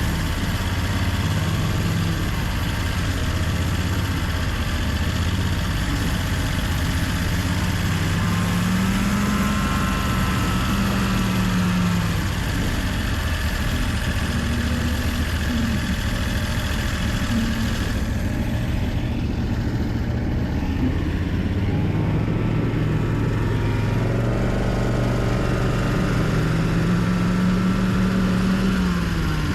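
Homemade snowmobile's Loncin engine running under way, its pitch rising and falling slowly as the throttle changes.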